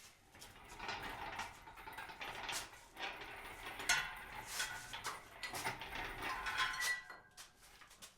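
Hand socket ratchet clicking in uneven bursts with metal tool scraping, as a bolt is worked loose at the back of an engine.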